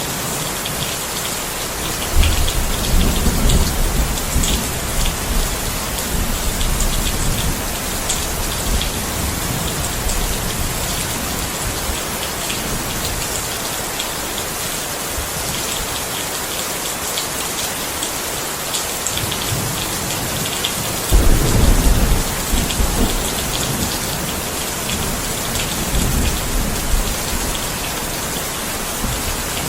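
Steady heavy rain, with thunder rumbling twice: a deep rumble begins about two seconds in and fades over a few seconds, and a louder one breaks in suddenly about two-thirds of the way through.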